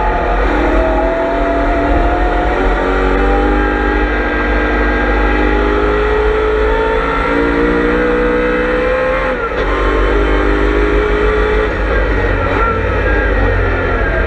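V8 engine of a BMW M3 E92 race car, heard on board under hard acceleration: its pitch climbs steadily for several seconds, drops sharply about nine seconds in, climbs again, and settles to a lower rumble near the end.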